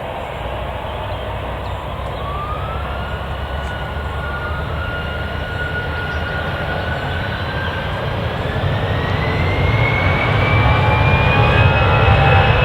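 Jet airliner's engines spooling up: a thin whine rising steadily in pitch over a deep rumble that grows louder toward the end.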